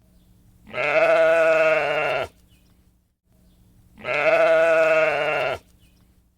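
Two long, wavering bleats, the same call heard twice with a pause between them.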